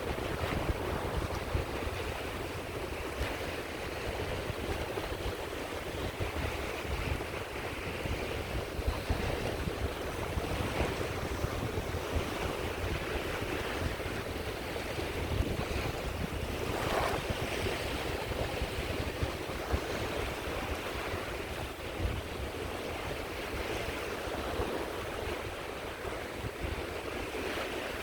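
Sea waves washing onto the shore in a continuous wash that swells and ebbs every few seconds, with wind rumbling on the microphone underneath.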